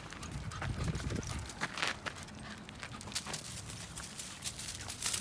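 Quick, irregular footsteps tapping on hard ground, with a low rumble in the first second and a half.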